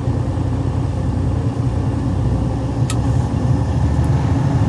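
Freightliner Cascadia's diesel engine idling steadily, heard inside the cab, as a parked particulate-filter regeneration is being started with the regen switch. Its low rumble shifts about a second and a half in, and there is a light click about three seconds in.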